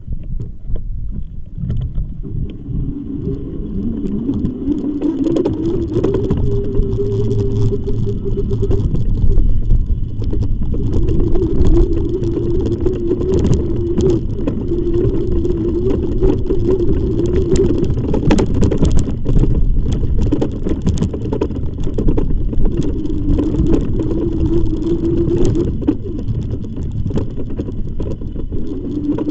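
E-bike motor whining as the bike picks up speed, its pitch rising over the first few seconds and then holding fairly steady, over a constant rumble of wind and tyres.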